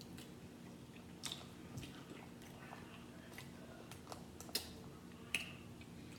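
Faint chewing of seafood, with half a dozen short wet mouth smacks scattered through it, the sharpest a little after four and a half seconds and again after five.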